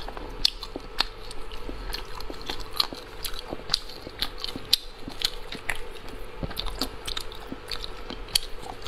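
Close-up chewing and lip-smacking of a chewy shellfish, a dense run of short, sharp wet clicks, with hands pulling meat from the shells.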